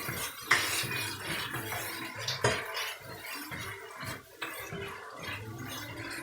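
Vegetables and sauce sizzling in a hot pan as they are tossed through with a utensil, which knocks against the pan a couple of times.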